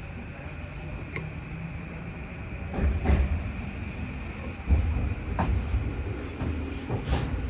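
Tokyu 3020 series electric train running along the track, a steady low rumble broken by several sharp thumps and clicks of the wheels over rail joints, the strongest about three seconds in and again just before five seconds.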